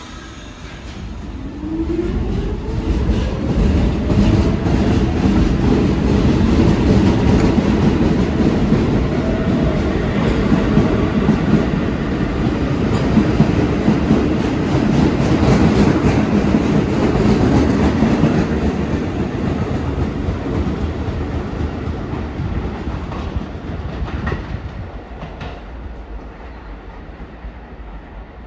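R46 subway train pulling out of the station: the traction motors' whine rises in pitch as it accelerates, then the wheels rumble and clatter over the rail joints before the sound fades away near the end.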